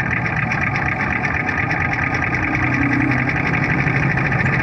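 Quarter midget race cars' small single-cylinder Briggs & Stratton Animal engines running steadily on track, a continuous buzz.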